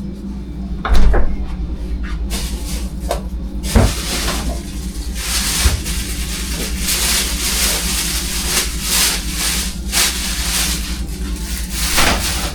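Kitchen cleaning noises: a sharp knock about a second in and another near four seconds, then an irregular hissing rush in surges, like water or scrubbing, over a steady low hum.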